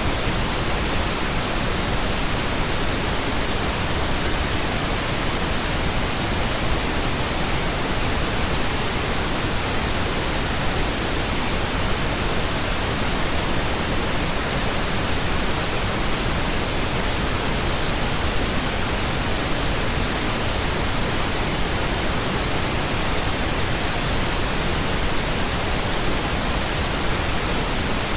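Steady pink noise: an even, unchanging hiss across the whole range, without tones or breaks.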